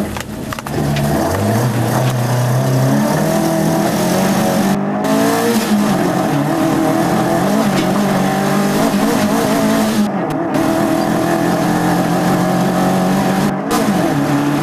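Mk1 Ford Escort rally car's engine heard from inside the cabin, running hard on a rally stage. Its note climbs about a second in, then rises and falls under a constant rushing noise.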